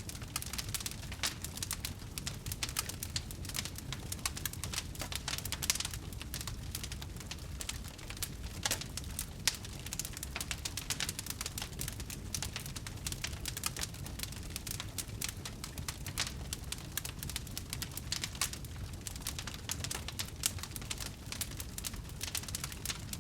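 Wood fire burning, with dense irregular crackles and pops over a low steady rumble of flame.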